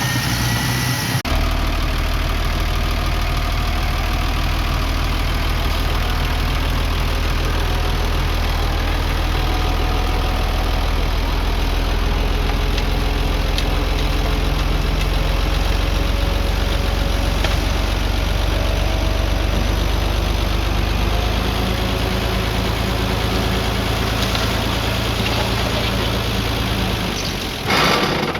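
Heavy earthmoving machinery's diesel engine running steadily with a low drone. A brief louder, rougher burst comes near the end.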